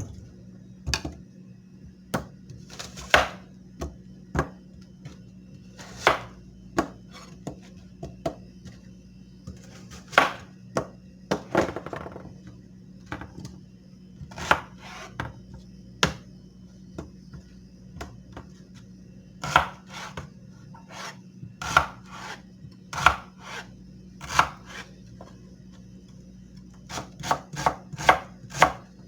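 Kitchen knife striking and scraping against a hard surface in irregular strokes, sometimes in quick runs, over a steady low hum.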